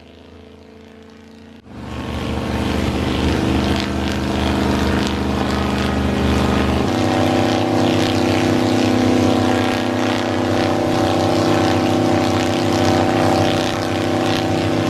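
V8-driven airplane-propeller wind machines running hard, a steady engine drone mixed with the rush of propeller wash. A quieter hum gives way to the full loud sound about two seconds in, and the engine note steps up to a higher pitch about seven seconds in.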